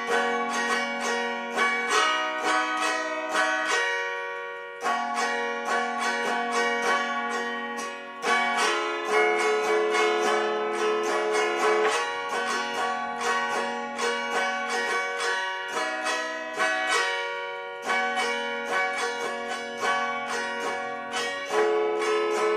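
Instrumental break in an old-time folk song: an acoustic plucked-string instrument picks the melody in quick, ringing notes, with no singing.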